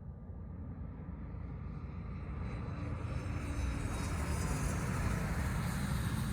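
Business jet engines growing steadily louder as the aircraft approaches. A high turbine whine comes in above the low rumble from about halfway through.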